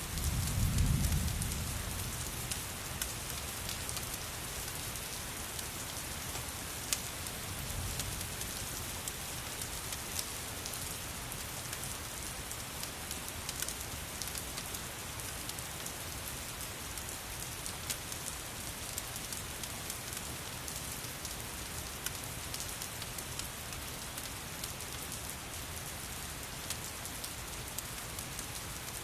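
Steady rain hissing, mixed with the sharp scattered pops of a crackling wood fire. A low rumble swells about a second in, and a weaker one comes around eight seconds.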